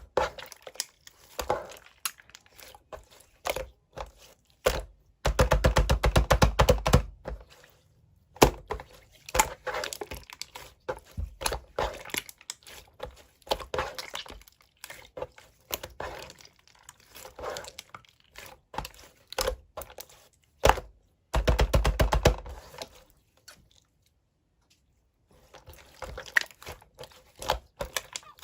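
Slime being handled, pressed and stretched, giving sticky clicks and pops. There are two spells of rapid crackling, about five seconds in and again a little after twenty seconds, and a short pause a few seconds before the end.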